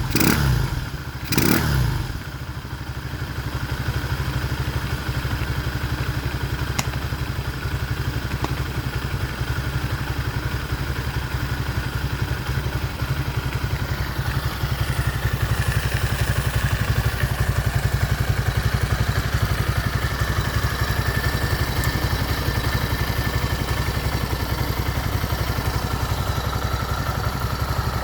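Motoland 166FMM 250 cc single-cylinder four-stroke engine running on its first start after repair. It revs briefly about a second and a half in, then idles steadily, the idle picking up a little about halfway through.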